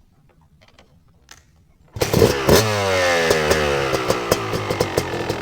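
Yamaha YZ250 two-stroke single-cylinder engine starting from cold about two seconds in: it catches with a brief rev, then the revs fall away and it settles toward idle with a steady popping.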